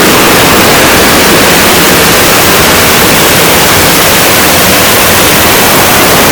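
Heavy rain falling, a loud, steady hiss with no breaks.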